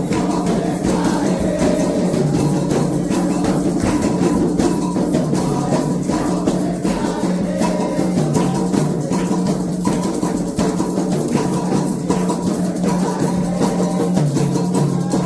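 Candomblé ritual music: drums and other percussion playing a dense, continuous rhythm under sustained singing.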